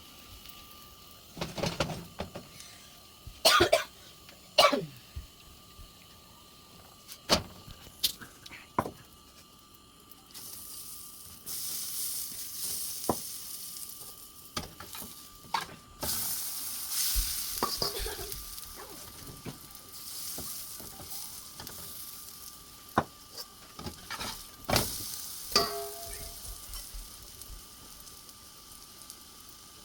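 Potato roti cooking on a hot pan: a few sharp utensil taps and clicks, then from about ten seconds in a loud sizzling that lasts some fifteen seconds and eases off near the end.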